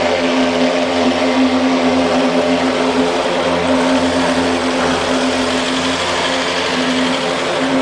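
Mosquito fogging truck and its fogging machine running, a loud steady drone with a constant buzzing pitch.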